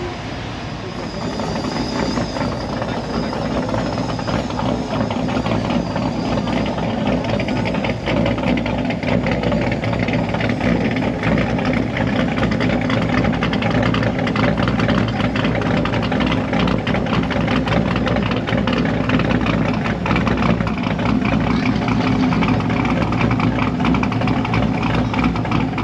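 Car engine idling close by, getting louder over the first few seconds and then holding steady.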